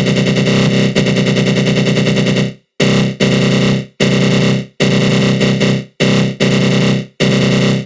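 Synthesized 'attack growl' sound effect: a dense synth tone made with the GMS synth in FL Studio Mobile and run through a flanger, with a fast pulse running through it. About two and a half seconds in it breaks into repeated bursts about a second long, each fading out before a short gap.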